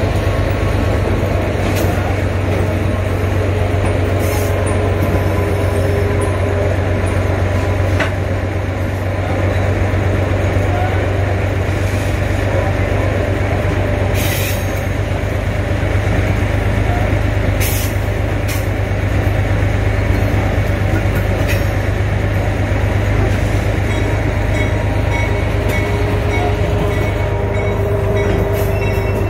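A train running on track, heard from inside its open-air passenger car: a steady low drone with rolling wheel-on-rail rumble, broken by a few short sharp clicks.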